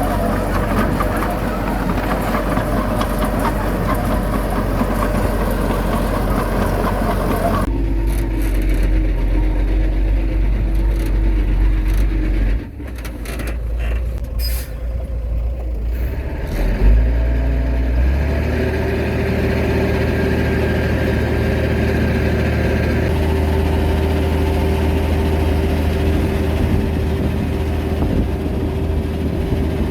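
Heavy diesel earthmoving machinery running continuously under load, its engine note shifting a few times, with a short loud jolt about two thirds of the way through and a steadier hum afterwards.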